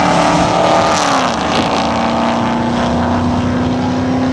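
Two drag-racing cars, a VN Commodore and an LS1 V8-powered car, running at full throttle side by side. Their engine notes drop in pitch about a second in as they go past, then hold a steady note as they pull away down the strip.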